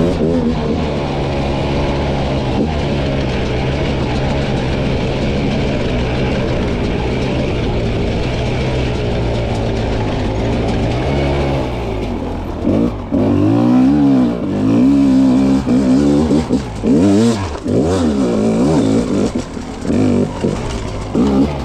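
300 cc two-stroke dirt bike engine, ridden. It holds steady revs for about twelve seconds, then is revved up and down again and again in quick throttle bursts, with short drops in loudness between them.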